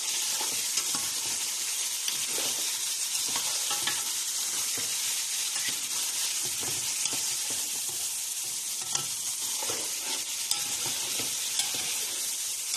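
Chicken pieces sizzling as they fry in oil in an aluminium pot, turned with a ladle that scrapes and clicks against the pot now and then.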